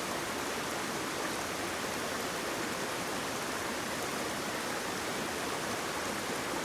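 Waterfall: a steady, even rush of falling water with no breaks or separate events.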